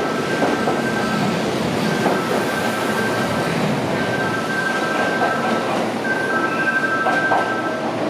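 Kintetsu 80000 series electric limited-express train running through the station and pulling away, with a steady rumble of wheels on rail and scattered knocks. Over it, a two-note electronic tone sounds in repeated stretches of one to two seconds with short breaks.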